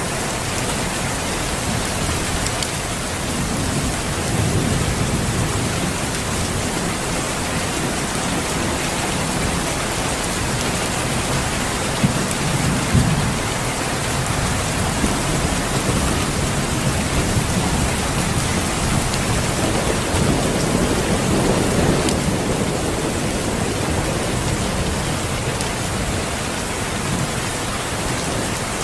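Steady heavy rain falling, a constant hiss of drops, with a few low rumbles swelling up under it about four seconds in, near the middle, and again about two-thirds of the way through.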